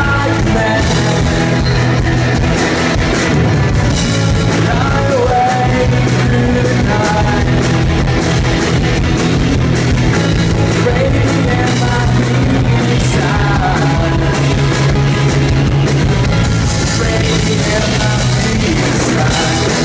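Rock band playing live: electric guitar, bass and drum kit in a loud instrumental passage.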